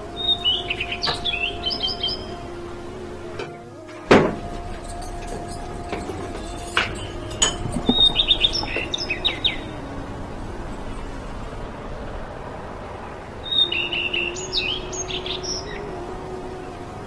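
Small birds chirping in three quick bursts of rapid high twitters. A single sharp clink about four seconds in is the loudest sound, with a few lighter knocks of kitchenware later. A steady low hum runs underneath.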